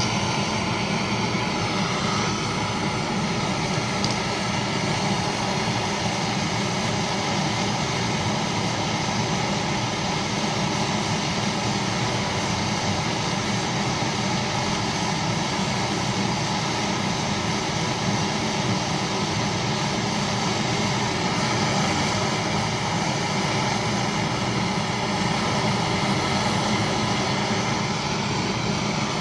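Steady machine running, a constant hum with a hiss over it, unchanging throughout.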